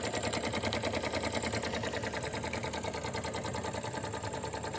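Jensen #75 toy live steam engine running steadily on steam, a fast, even beat of piston and exhaust chuffs with light mechanical clatter.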